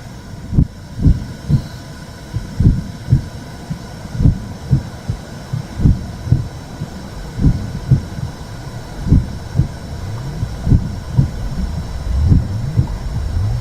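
Womb sound for soothing a baby: a slow heartbeat, each beat a double thump, about one pair every second and a half, over a steady low rumbling noise.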